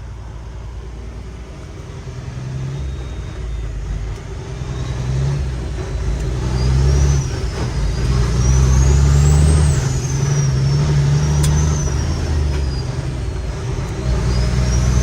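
Cummins X15 diesel of a loaded Kenworth T800 truck pulling hard, heard from inside the cab. The engine sound grows louder over several seconds, eases off briefly near the end, then climbs again. A high whine rises and falls in pitch several times above it.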